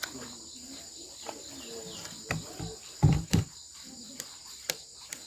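Steady insect chirring, crickets by the sound of the tags, under a few sharp clicks and knocks, with two dull thumps about three seconds in as the loudest sounds.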